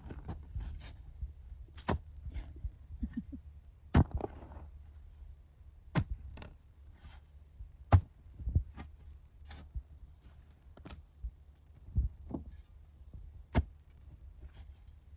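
A digging tool striking hard, frozen ground again and again, about ten sharp strikes one every second or two, as a planting hole is chopped out of soil that is still frozen.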